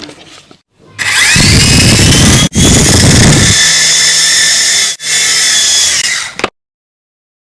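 Toy helicopter's small electric motor whining loudly, rising in pitch as it spins up about a second in, then running steadily with two brief breaks before cutting off abruptly near the end.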